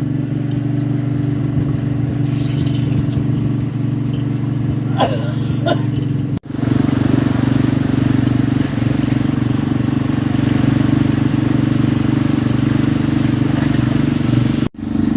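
Fishing boat's engine running steadily with a low drone, breaking off abruptly twice for a moment before carrying on.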